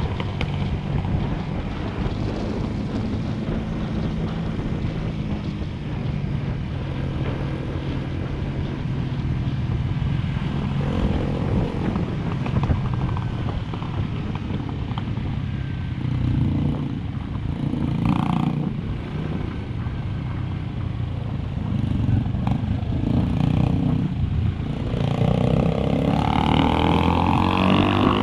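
Motorcycle engine running while under way. Its pitch climbs near the end as the revs rise.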